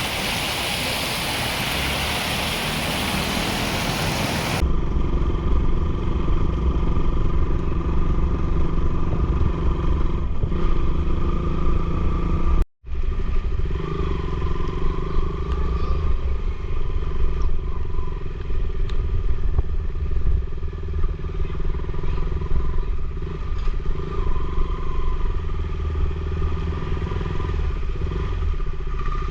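A motorcycle engine running steadily under way, with a low rumble. For the first four and a half seconds a loud, even rushing noise covers everything, then it stops abruptly and the engine comes through clearly, with a brief gap in the sound about halfway through.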